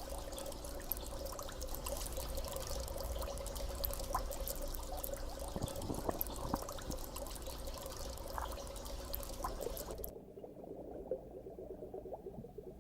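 Water running and trickling, with many small splashy drips. About ten seconds in it suddenly turns muffled.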